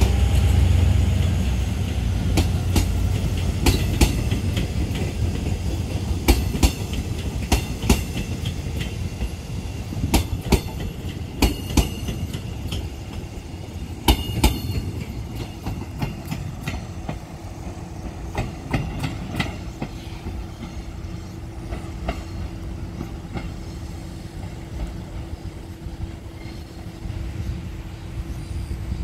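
Korail Mugunghwa passenger cars rolling past on the rails: a low rumble with an uneven run of sharp wheel clicks over the rail joints. The clicks thin out after about fifteen seconds and the sound fades as the train pulls away.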